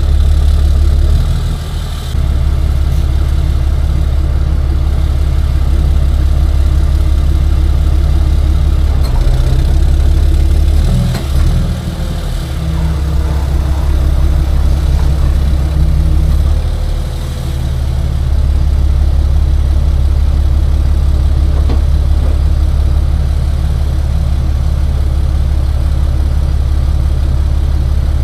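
Tow truck engine idling steadily with a deep, even hum, dipping briefly a few times.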